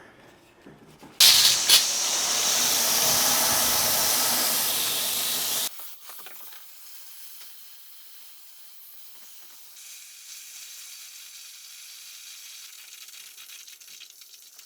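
Water running hard into a curbless shower pan, filling it for a flood test: a loud, even hiss that starts suddenly about a second in and cuts off about four seconds later, followed by a much fainter steady hiss of running water.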